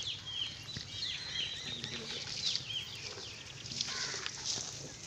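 Small birds chirping: many short, quick chirps overlapping.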